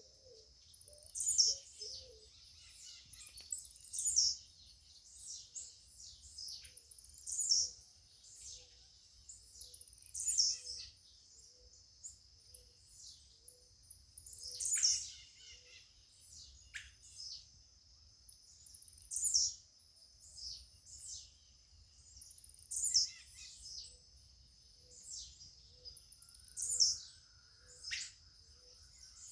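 Birds singing outdoors: a loud, high chirping phrase repeats every three to four seconds over a steady high-pitched drone, with soft low notes repeating about twice a second.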